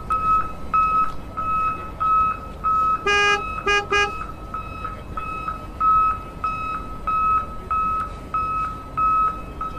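Electronic beeping like a construction vehicle's reversing alarm: one high beep repeating about three times every two seconds. About three seconds in, a lower horn sounds three toots, the first longer than the other two.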